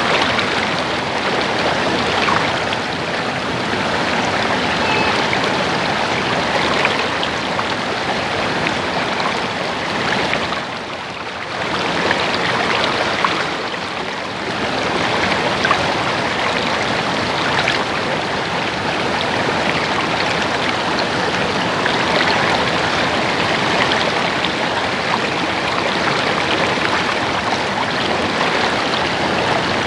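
Water babbling steadily over rocks in a small stream, with two brief dips in level near the middle.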